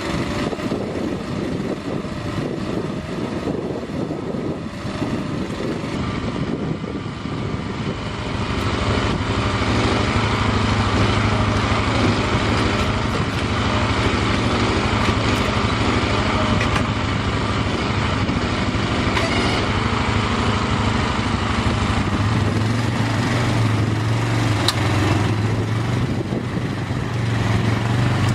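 Small ATV engine running steadily, getting louder and heavier about eight seconds in as it works under load.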